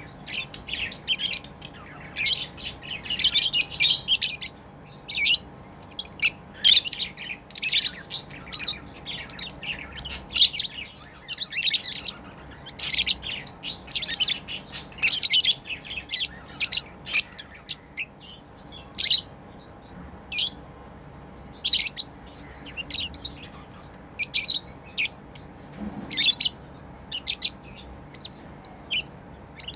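Pet lovebirds chirping: rapid, high-pitched, shrill chirps that come in dense, irregular clusters with brief gaps.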